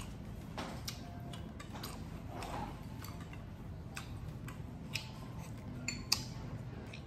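Close-miked eating: chewing with scattered wet mouth clicks and smacks, then a slurp of kimchi ramen noodles near the end, all over a low steady hum.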